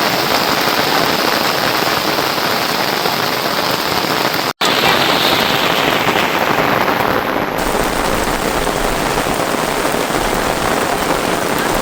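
Rain falling steadily, an even hiss, with a split-second dropout about four and a half seconds in.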